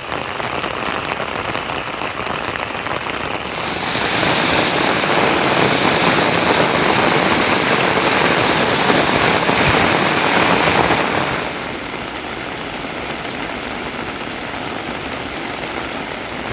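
Steady rain falling. It gets louder and hissier abruptly about three and a half seconds in, then drops back just as suddenly about twelve seconds in.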